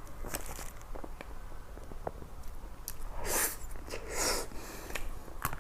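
Close-miked eating sounds: soft chewing clicks, then two breathy sucking sounds about a second apart.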